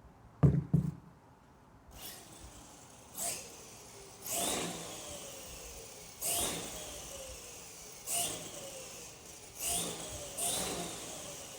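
An Arrma Kraton RC car's electric motor and drivetrain given six short throttle blips, each a quick rising whine that spins down slowly. The car is being tested after a crash that the driver thinks broke it. Two sharp knocks come near the start.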